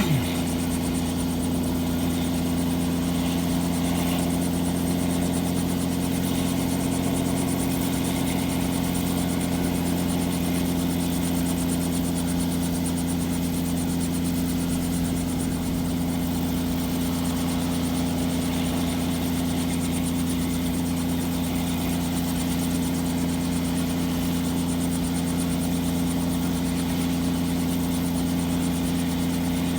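Robinson helicopter running steadily, its engine and rotor holding a constant pitch with no rise or fall.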